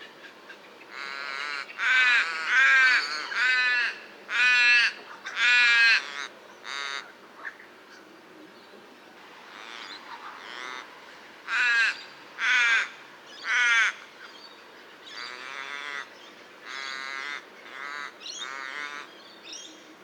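Common raven giving a series of hoarse calls in loose bouts: loud calls for the first several seconds and again around the middle, fainter calls near the end.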